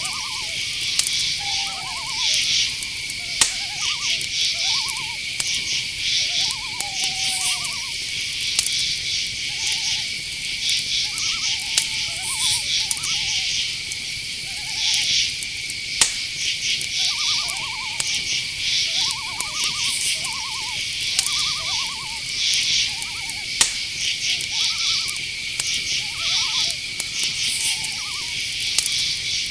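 Night-forest ambience: crickets chirping without a break, a steady high trill under rapid pulsed chirps. Over it come many short, quavering calls lower in pitch, every second or two, and a few sharp clicks.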